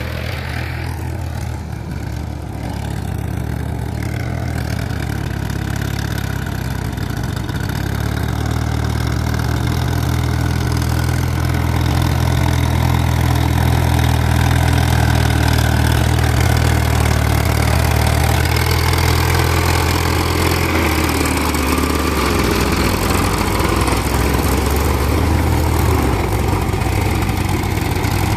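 Powertrac Euro 50 tractor's diesel engine running steadily while pulling a cultivator. It grows louder over the first dozen seconds, then holds a steady drone.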